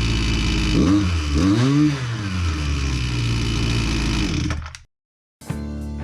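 Husqvarna 129L string trimmer's small two-stroke engine running, revved up and back down twice, now running after its no-start fault was fixed. The engine sound cuts off abruptly near the end, and a short stretch of music follows.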